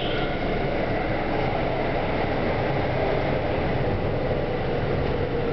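Kintetsu 3220 series electric train running at speed, heard inside the passenger car: a steady rumble of wheels on rail with faint whining tones over it.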